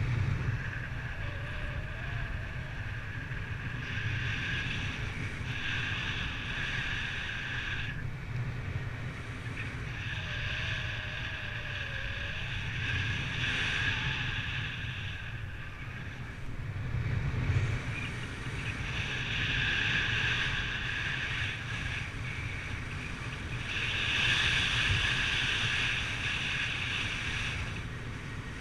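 Wind buffeting the microphone during flight, a steady low rumble. Over it, a steady high-pitched tone comes and goes every few seconds.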